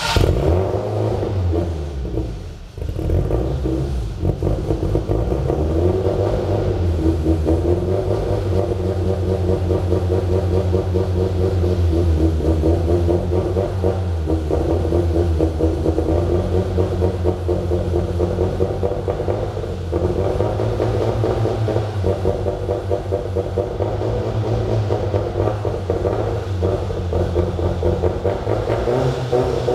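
Toyota MR2 engine starting up and idling through its new exhaust. It catches abruptly, dips briefly about two and a half seconds in, then settles into an idle whose speed wavers up and down. The engine is untuned and has a vacuum leak.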